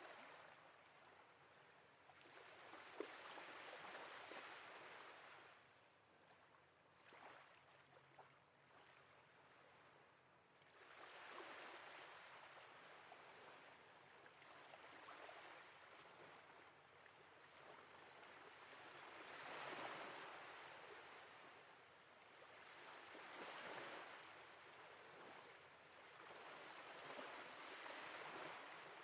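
Faint sea waves washing gently, a soft rush that swells and ebbs every few seconds.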